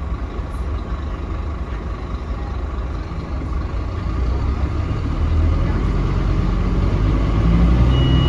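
Scania K310UB bus's diesel engine running, heard from on board, with a low rumble that grows louder about four seconds in as the engine works harder. A steady high beep comes in right at the end.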